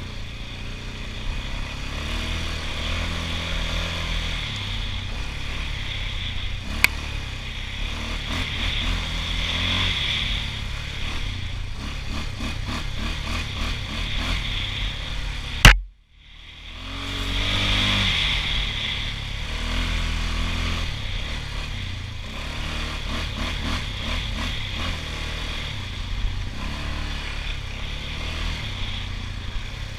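Honda TRX680 ATV's single-cylinder engine running while ridden, its pitch stepping up and down with the throttle, with some clatter. A sharp knock comes about seven seconds in, and a loud bang about halfway through, after which the sound briefly drops out and then swells back.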